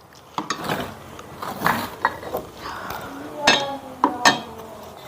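Cutlery and dishes clinking during a meal: a string of sharp clicks and clinks, the two loudest close together near the end.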